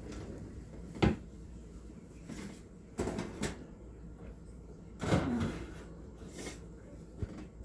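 Oven door and rack clunking as a baking pan is put into a kitchen oven: one sharp knock about a second in, then several softer clunks and scrapes.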